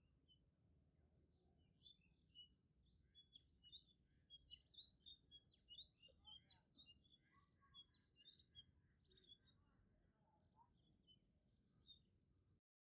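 Faint chirping of small birds, many short overlapping calls, over a low steady hum; it stops abruptly near the end.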